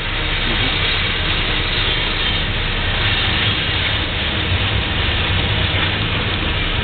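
Freight train of tank cars and a covered hopper rolling slowly past on the rails: a steady rumble and rushing noise of wheels on track.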